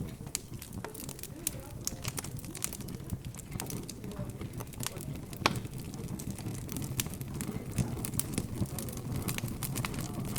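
Wood fire crackling, with irregular sharp pops and one louder snap about halfway through, over a low hum of background chatter.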